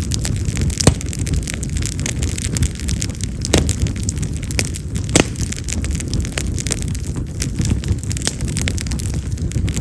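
Split yamazakura (wild cherry) firewood burning in an open fire: a steady low rumble of flame with frequent sharp crackles and pops. The loudest snaps come about a second in and twice more around the middle.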